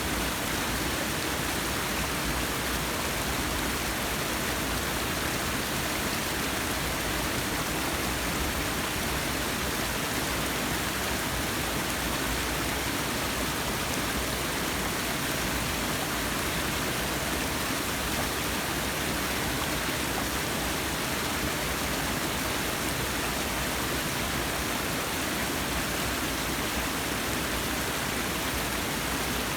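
Forest waterfall: water falling and splashing with a steady, unbroken rush.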